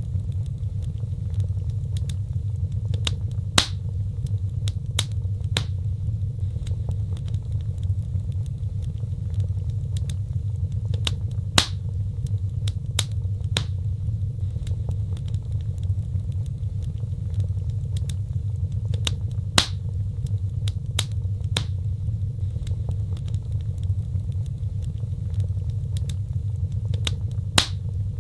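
Wood fire crackling in a fireplace: scattered small snaps and a few louder pops, about eight seconds apart, over a steady low rumble of the flames.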